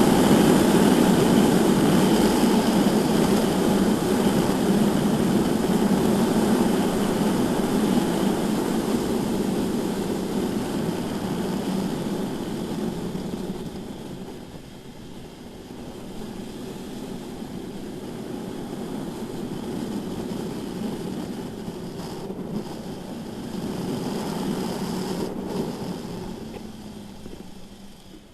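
Onboard ride noise from a BMW S1000RR sport bike on track: a heavy rush of wind and engine noise. It is loud at first and falls off to a lower level about halfway through.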